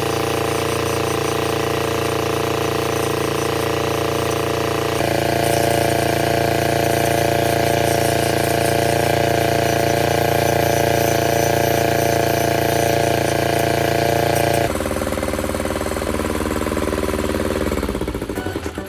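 Small engine-driven generator running steadily with a pitched hum. Its note shifts abruptly twice, then slows and winds down near the end as the engine stops.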